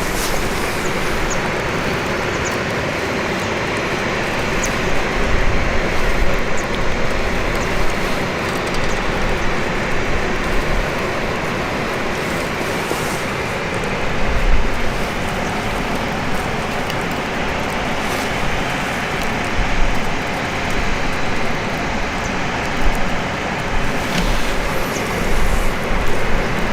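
Campfire burning: a steady rushing noise with a sharp crackle or pop now and then.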